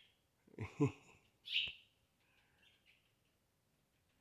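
Small birds chirping: one clear high chirp about a second and a half in, with fainter short chirps after it. Just before it, a short low sound with a falling pitch, like a brief voice or mouth sound, is the loudest thing.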